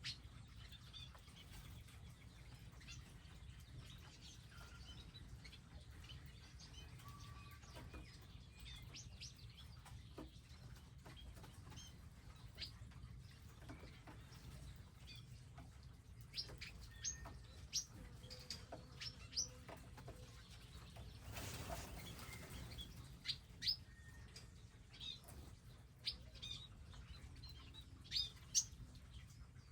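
Small wild birds chirping at a feeding area: short, high calls, scattered at first and more frequent in the second half. A brief rushing noise comes about two-thirds of the way through, over a steady low hum.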